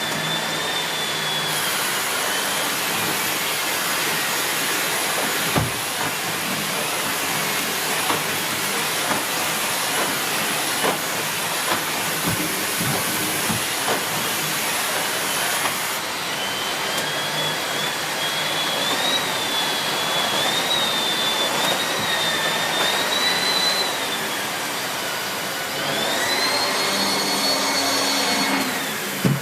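Miele C2 Compact (S6 Cat and Dog) cylinder vacuum cleaner's 2000 W motor running steadily, with a high whine that wavers in pitch and a few short knocks. Near the end the whine climbs higher and holds.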